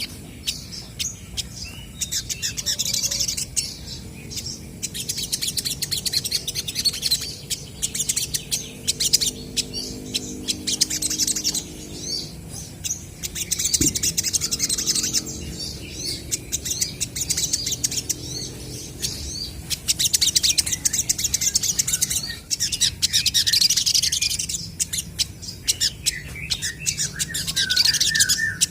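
Olive-backed sunbirds singing and calling back and forth: dense runs of rapid, high chirps and trills with short lulls between them.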